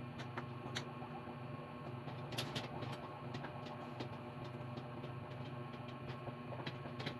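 Scattered light clicks and taps, a dozen or so at uneven intervals, over a steady electrical hum.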